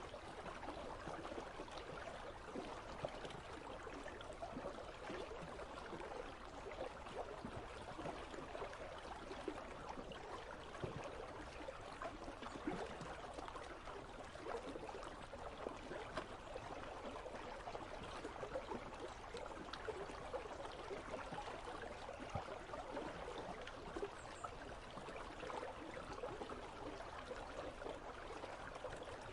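Icy river running steadily, a soft continuous babble of flowing water.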